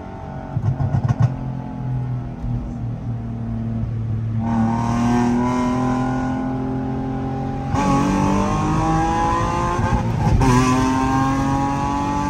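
Nissan 350Z's 3.5-litre V6 heard from inside the cabin through a replacement exhaust that is too loud. It runs fairly steadily at first, then pulls hard from about four seconds in, the note climbing, dropping at an upshift about eight seconds in and again about two and a half seconds later, and climbing again after each shift.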